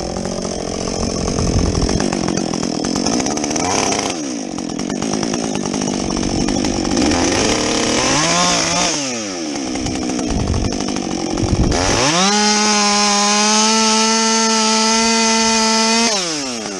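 Husqvarna 562XP two-stroke chainsaw with a modified muffler, cutting through a log, its engine pitch wavering and dipping under load. About twelve seconds in it climbs to a steady high scream at full throttle, holds for about four seconds, then drops back near the end.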